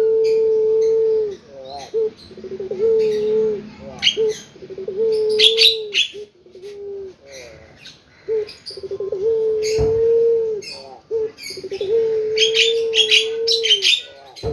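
Puter pelung dove cooing: a series of long, low coos, each opening with a quick stutter and then held steady for about a second. Small birds chirp high and briefly between and over the coos.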